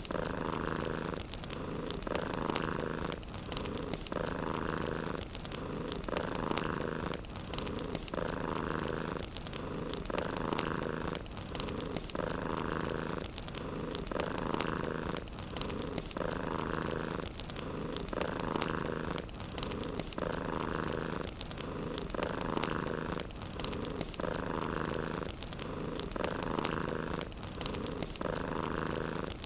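Domestic cat purring steadily, swelling and easing about once every two seconds with each breath, over the light crackling of a wood fire.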